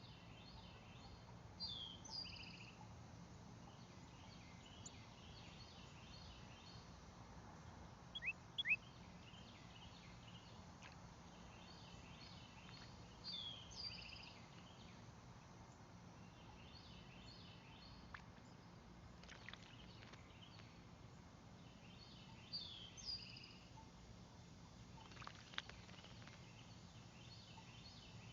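Wild songbirds singing. One bird repeats a short phrase of falling notes about every ten seconds, with a few sharp chirps in between, over a faint background chorus of other birds.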